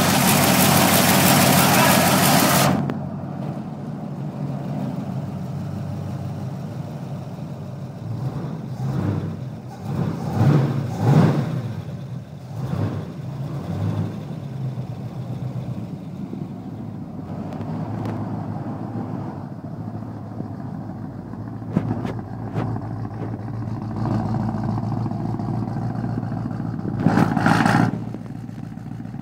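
GTO's engine idling loudly with a low steady note, blipped up in a cluster of short revs about ten seconds in and once more near the end. A very loud hissing rush fills the first few seconds.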